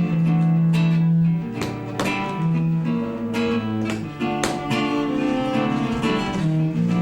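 Instrumental music: a plucked and strummed acoustic guitar, with long held low notes underneath.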